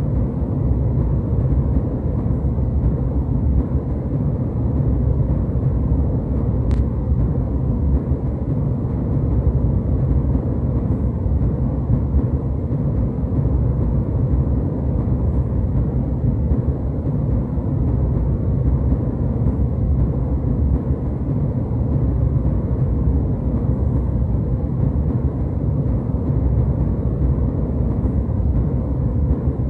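Steady low rumble of a jetliner cabin in flight: the constant drone of the engines and the airflow over the fuselage, deep and even, without change.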